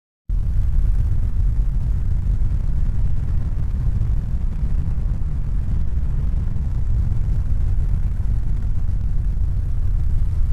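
Steady low rumbling noise with no distinct tones. It cuts in abruptly just after a brief silence and starts fading out at the very end.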